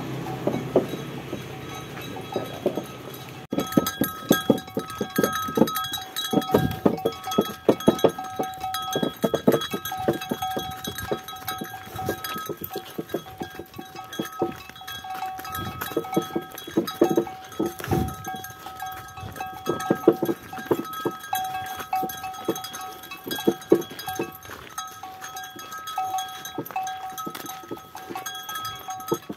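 Bells on a bullock cart's team of cattle jingling continuously as the cart moves, over an irregular clatter of hooves and the cart's knocking.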